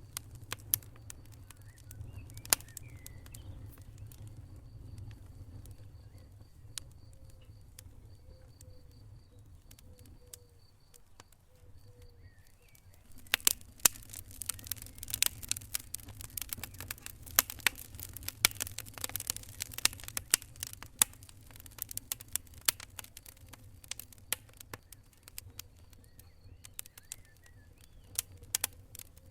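Wood fire in a fireplace crackling and popping over a low steady rumble of flames, with a denser, busier run of crackles from about halfway through.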